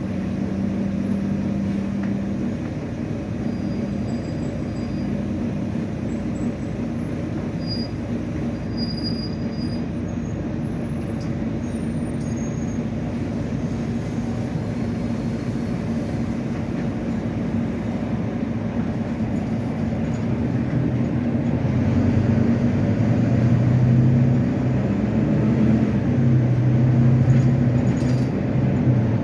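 Volvo B9TL double-decker bus running, a steady engine and driveline drone. A steady tone fades out about two seconds in, and later the drone grows louder with low tones that rise and fall as the engine works harder.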